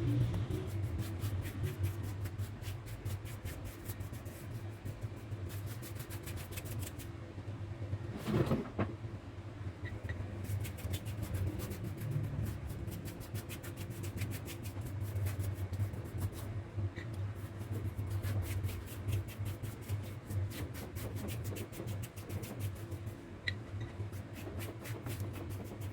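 A small electric motor humming steadily, with rapid dense clicking or scraping over it and one louder knock about eight and a half seconds in.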